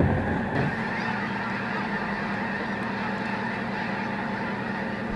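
Steady, dense chorus of a huge flock of snow geese calling, many voices blending into one continuous din.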